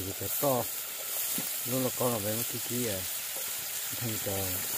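Food frying in hot oil: a steady sizzle.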